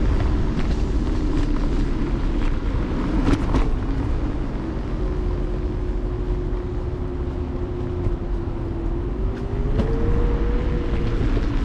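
Electric scooter riding along a city street: a steady low rumble of road and wind noise under a steady hum that rises in pitch about two-thirds of the way through, with a few brief clicks near the start.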